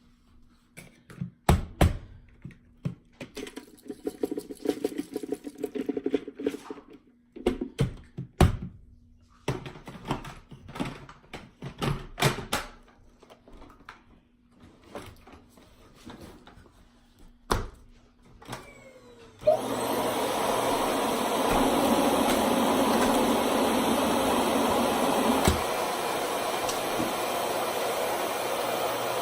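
Clicks and knocks of a vacuum cleaner being handled, then the vacuum switched on about two-thirds of the way in, its motor running steadily.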